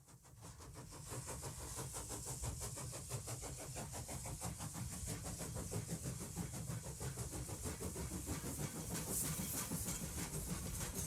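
Steam locomotive, the 2-10-0 Decapod Frisco 1630, working down the track: a quick, even beat of exhaust chuffs over a low rumble and a steady hiss, fading in over the first second or so.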